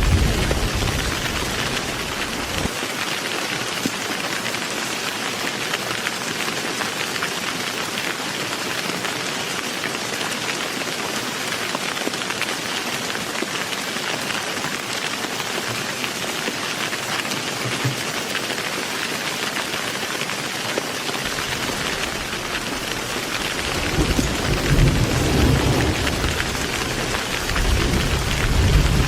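Heavy rain falling steadily with a constant hiss. Thunder rumbles low at the start, then again for the last few seconds.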